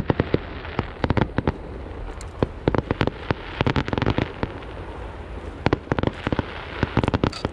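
Aerial fireworks going off in rapid clusters of sharp cracks and bangs. There is a short lull a little past the middle, then another flurry near the end.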